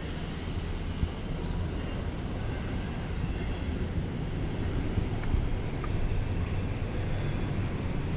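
A train passing, giving a steady low rumble of wheels on the rails, with some wind on the microphone.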